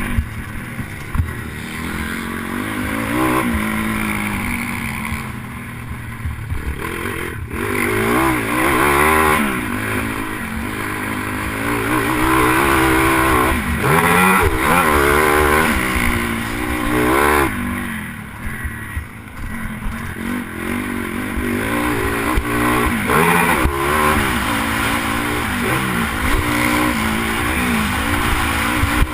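Pit bike engine revving hard and dropping off again and again as the rider opens and closes the throttle through the track, heard from a helmet camera with rushing wind noise. The revs ease off briefly twice, about six seconds in and again near the middle.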